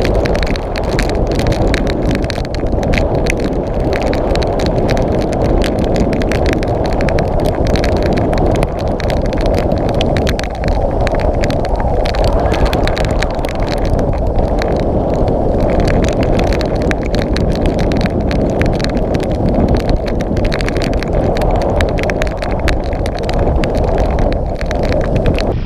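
Heavy wind buffeting the microphone in a storm: a loud, steady rumble with a dense, irregular crackle over it.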